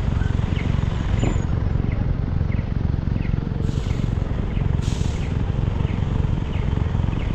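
Motorcycle on the move in the rain: steady low rumble of engine, wind and road on the microphone, with two short hissing bursts about a second apart near the middle.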